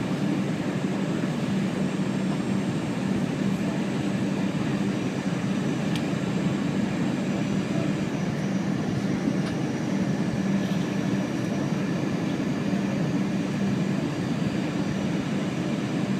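Steady jet airliner cabin noise: engines and airflow heard from inside the cabin, an even rushing noise with a steady low hum. It holds level throughout, with no jolt or rise.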